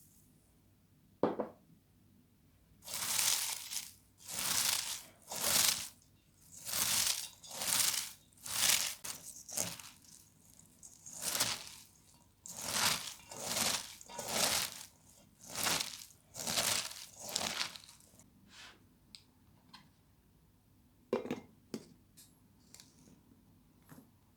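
A steady series of about a dozen crunchy, tearing strokes, roughly one a second, preceded by a single sharp click and followed by a few light clicks.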